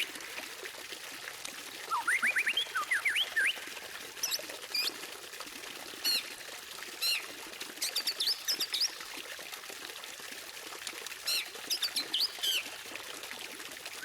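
White-rumped shama singing in bursts: quick runs of rising whistled notes, then sharp high chirps, with a pause of a couple of seconds near the middle, over a steady background hiss.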